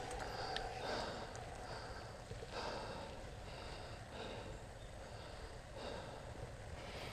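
A cyclist's faint, heavy breathing, in and out about every one and a half seconds, after riding.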